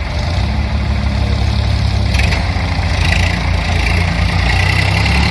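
Tractor diesel engine running steadily and loudly, growing a little louder about half a second in.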